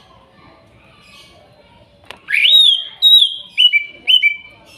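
Cucak ijo (green leafbird) singing: a loud rising whistle about two seconds in, held briefly, then a run of shorter whistled notes that step down in pitch.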